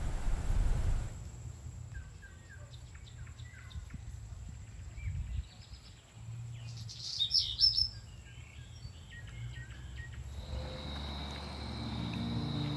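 Outdoor ambience of small birds chirping and twittering, the clearest high chirps a little past the middle, over a low rumble. Near the end a steady high buzz and soft music come in.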